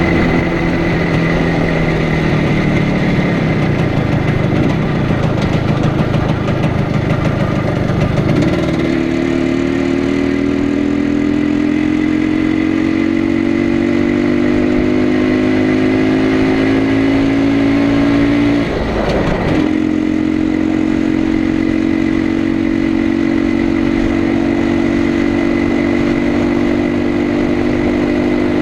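Izh Planeta Sport 350's single-cylinder two-stroke engine pulling under way. Its pitch drops early on, then climbs slowly, and there is a brief break about two-thirds through, a gear change, after which it resumes lower and climbs again.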